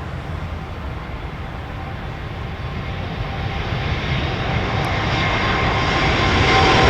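Airbus A380-861's four Engine Alliance GP7200 turbofans at takeoff thrust: a steady jet roar with a faint whine, growing steadily louder as the aircraft comes closer.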